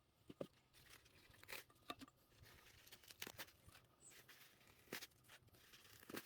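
Faint, scattered snaps and tearing of salad greens being picked and torn by hand, with a few sharper snaps among them.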